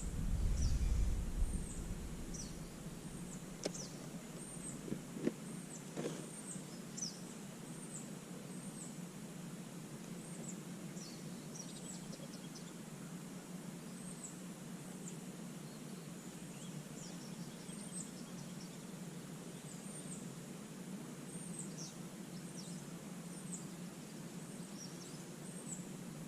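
Quiet outdoor ambience with small birds chirping: short, high chirps repeating about once a second over a faint steady low hum. A low rumble sounds in the first couple of seconds, and a few sharp clicks or knocks come in the first six seconds.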